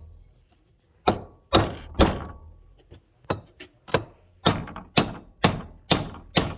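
Repeated sharp blows of a hammer on metal tractor parts, some with a brief ring. Three come about half a second apart, then after a short pause a steady run of eight at roughly two a second.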